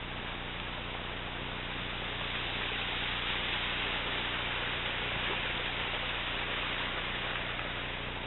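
Steady rush of a river's flowing water, an even hiss that swells a little a few seconds in, over a low steady hum.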